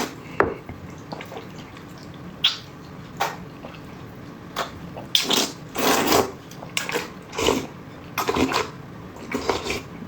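Close-up eating sounds: wet chewing and slurping of noodles and saucy meat in irregular short bursts, with a few sharp clicks in the first few seconds.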